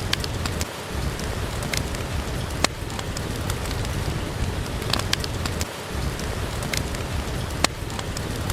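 Steady, even rain, with a few scattered sharp pops and ticks over it.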